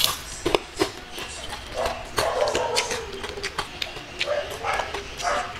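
Close-up eating sounds: crunching and chewing fried dried fish with rice, with sharp mouth clicks and smacks. A longer drawn-out sound comes about two seconds in.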